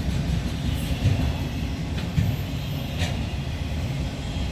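Freight cars of a long BNSF train rolling past slowly, a steady low rumble with a couple of sharp clicks, as the train slows toward a stop.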